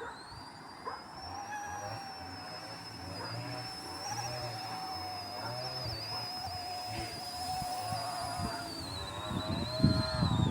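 Small electric RC helicopter (Era EC135 C123) in flight: a steady high motor and rotor whine that wavers slightly in pitch and drops near the end. Loud rumbling buffets come in near the end.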